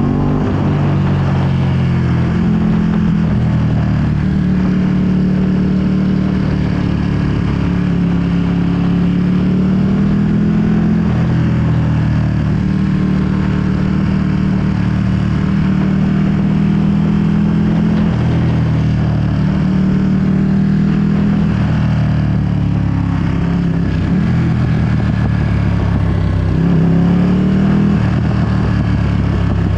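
2020 Ducati Panigale V2's V-twin running through a full Akrapovic exhaust while riding, its note shifting pitch several times and rising in revs near the end.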